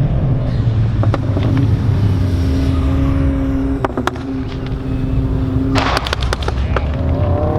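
Subaru WRX STI's turbocharged flat-four engine running hard on an autocross run, heard from inside the car. A steady tone is held through the middle, and sharp clicks come just before 4 seconds and again around 6 seconds.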